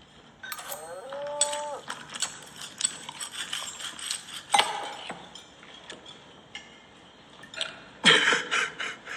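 A cow mooing as a comic sound effect for a bite of beef: one call that slides up and then holds for about a second, starting about half a second in. Scattered sharp clicks and clinks follow, with a loud, rough burst of sound near the end.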